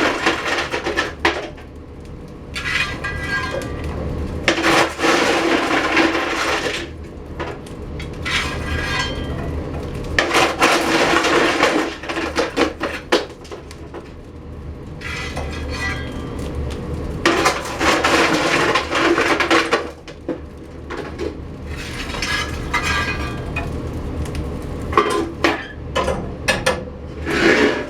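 Coal being loaded into a wood furnace's firebox on top of burning wood: metal scraping and coal lumps clattering, in about ten bursts a couple of seconds apart.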